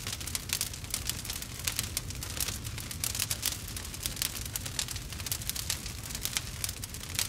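Campfire crackling and popping: a dense run of sharp pops and snaps over a steady low rumble of burning.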